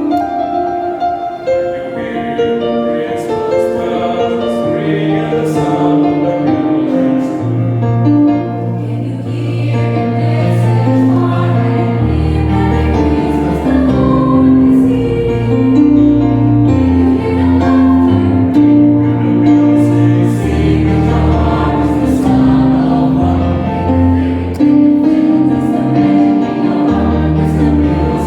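A mixed choir singing a Christmas song in sustained chords, its low parts growing fuller and deeper from about a third of the way in.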